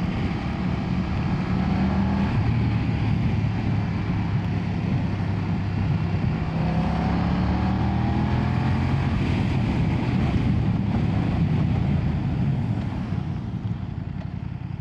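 BMW F900R's 895cc parallel-twin engine running under way, its note rising and falling with the throttle and easing off near the end, over the rush of wind and road.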